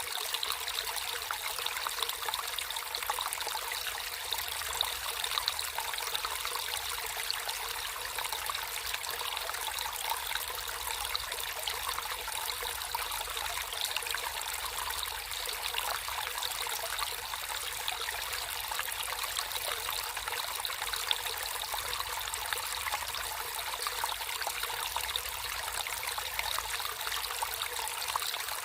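Water flowing and trickling steadily in a small stream, a continuous bright babble with many small splashes.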